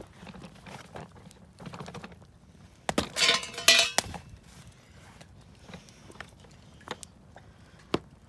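Wood campfire crackling, with sharp, scattered pops. A louder, hissing burst lasts about a second, starting about three seconds in.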